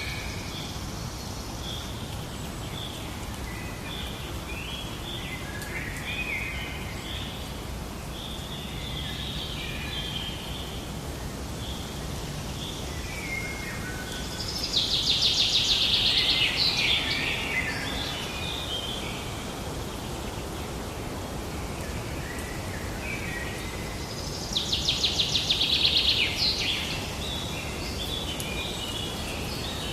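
Birdsong: a string of short chirps, with two louder, rapid trilled phrases, one about halfway through and one near the end, over steady low background noise.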